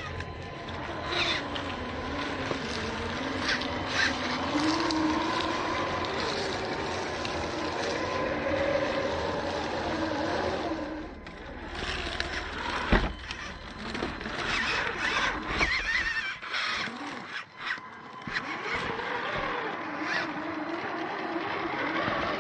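Small electric motor of an RC rock crawler whining, its pitch rising and falling with the throttle, with scattered scrapes and clicks and one sharp knock about halfway through.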